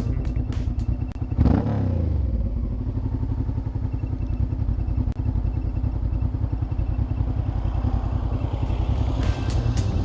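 Motorcycle engine idling steadily with an even low pulse, after a brief rev that falls back about a second and a half in. Music fades out early and comes back near the end.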